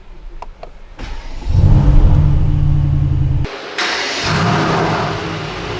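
Mercedes-AMG GT R Pro's 4.0-litre twin-turbo V8 starting in Sport Plus mode: a short starter whir about a second in, then the engine catches with a loud flare of revs and holds a high idle. Past the middle the sound drops abruptly and settles to a lower, steadier idle.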